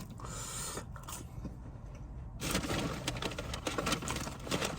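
Close-miked eating and food-handling noises: a short hiss, then from about two and a half seconds in a dense run of rapid crisp crackles and clicks.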